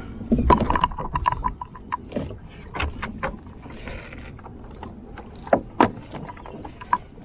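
Clicks and knocks of gear being handled in a plastic fishing kayak, with a quick run of rapid clicks about a second in.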